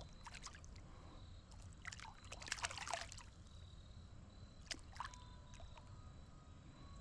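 Faint splashing and trickling of shallow creek water: a cluster of small splashes about two to three seconds in and two more near five seconds.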